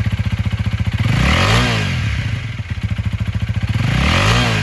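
2021 Honda Rebel 300's single-cylinder engine idling just after starting, with the throttle blipped twice: it revs up and falls back about a second in and again near the end.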